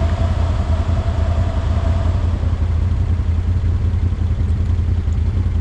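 ATV engine idling steadily with a low, even hum. A faint steady whine above it fades out about two seconds in.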